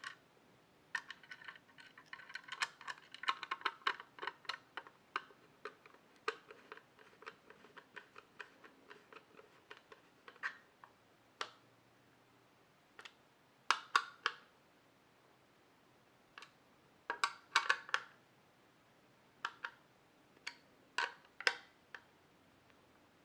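Small metallic clicks and ticks of screws being driven by hand to fasten a SATA SSD to a PC case's drive tray. The clicks come quickly for the first several seconds, then as a few short separate clusters of clicks and taps.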